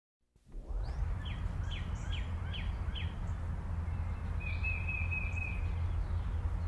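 Outdoor ambience fading in: a bird sings a run of five quick, falling whistled notes, then a short trill, over a steady low rumble.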